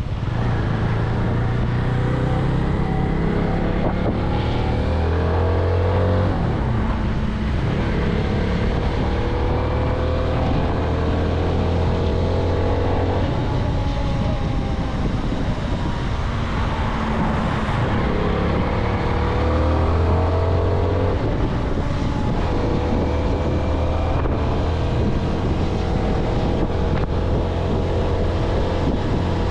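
CFMoto 250NK's single-cylinder engine through its stock exhaust, accelerating in several pulls that rise in pitch and drop back at each gear change. The engine is new and still being run in. Wind rushes over the microphone.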